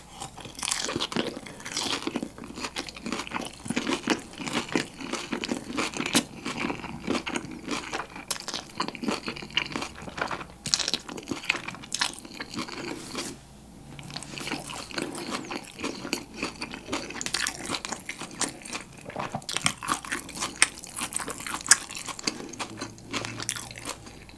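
Close-miked crunching and chewing of crispy Cajun boneless fried chicken, the batter crackling irregularly with each bite, with a short lull about halfway through.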